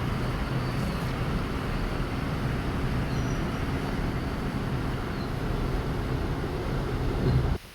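Steady mechanical running noise with a low hum, which cuts off sharply near the end.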